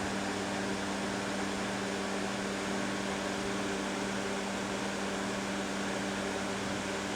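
Box fan running steadily on high speed: an even rush of air over a constant motor hum.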